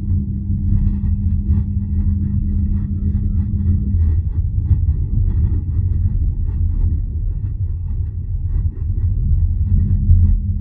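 BYD Atto 3 electric car moving slowly, a steady low rumble with a low hum over it that stops about four seconds in. The owner calls this hum strange and hears it between 20 and 32 km/h on top of the car's pedestrian safety sound.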